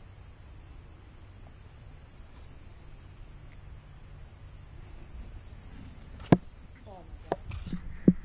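Steady high-pitched insect chorus, with a sharp knock about six seconds in and a few lighter clicks and knocks near the end.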